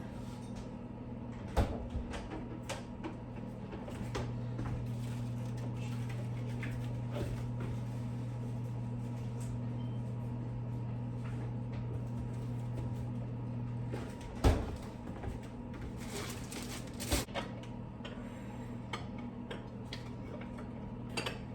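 Kitchen cupboard doors knocking shut now and then over a steady low appliance hum, which is louder for about ten seconds in the middle and stops just before the loudest knock.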